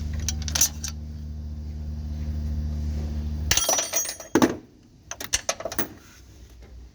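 BMW engine idling with a steady hum, freshly flushed with kerosene, then switched off about three and a half seconds in. Several sharp metallic clinks and clanks follow.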